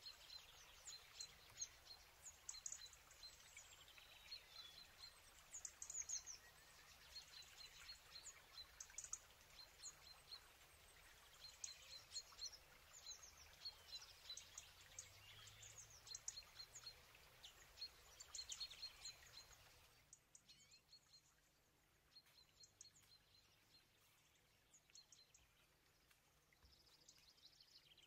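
Near silence with faint birdsong: many short, high chirps and quick falling notes, thinning out after about twenty seconds.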